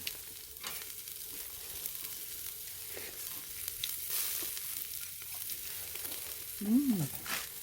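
Pork neck sizzling on a grill over a charcoal brazier: a steady fat-spitting hiss with small scattered crackles and pops.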